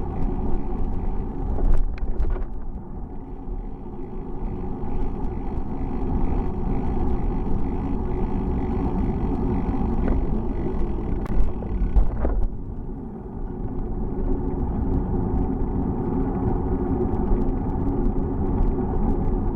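Continuous ride noise from a moving bicycle: low wind rumble on the microphone with road and drivetrain noise, and a few sharp clicks.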